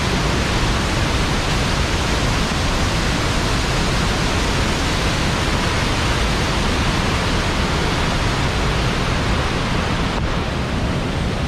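Loud, steady rush of the Nooksack River's water pouring down Nooksack Falls.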